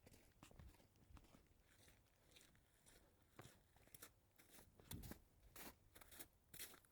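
Faint footsteps crunching in snow, sparse at first, then quicker and louder through the second half.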